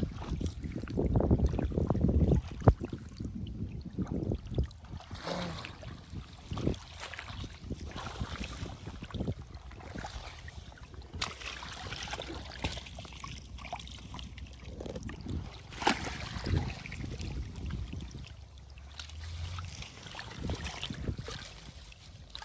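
Water sloshing and splashing in irregular surges, with wind buffeting the microphone during the first couple of seconds.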